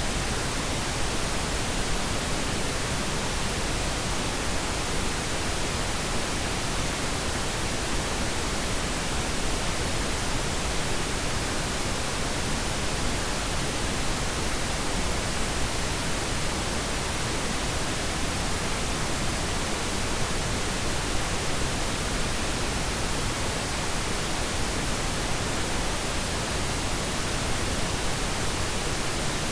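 Steady synthetic pink noise: an even, unchanging hiss spread across the whole range of pitch, softer in the highs than white noise.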